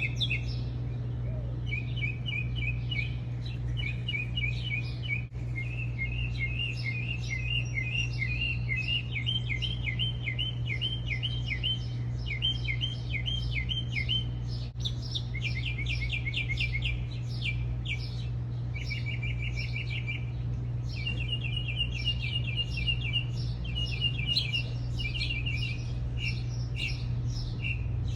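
Small birds chirping in quick repeated trills, phrase after phrase, over a steady low hum.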